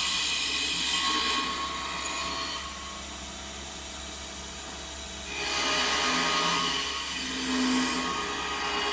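Small wood lathe running with a steady hum while a cutting tool works the spinning wood in two stretches: a cut for the first two and a half seconds, a few seconds of the machine running without cutting, then a second cut from about five seconds in.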